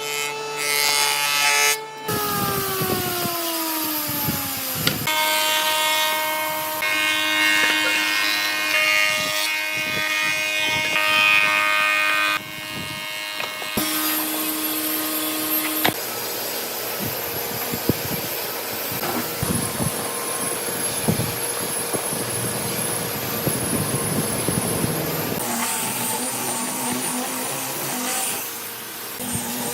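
Electric power tools working wood: a motor hums, winds down in pitch a couple of seconds in, then runs steady again, followed by a long stretch of rough cutting or sanding noise on wood.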